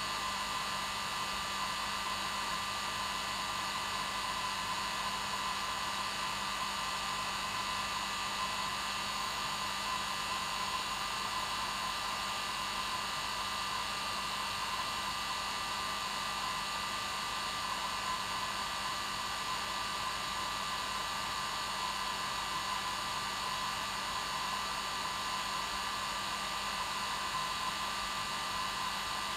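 Hair dryer running steadily: a continuous rush of air with a constant motor hum and whine, unchanging in pitch and level.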